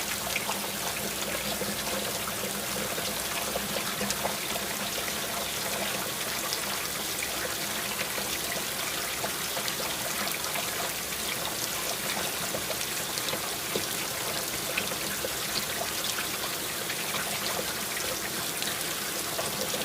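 Water sound effect: a steady trickling and splashing of running water, with many small drips and ticks throughout.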